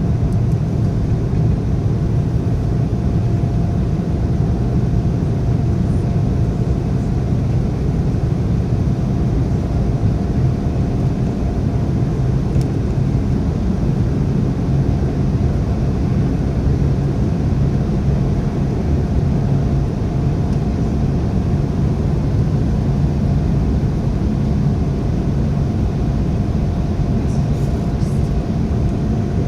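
Steady cabin noise of an Embraer ERJ175 regional jet: a constant low rumble of engines and airflow with a faint steady whine over it.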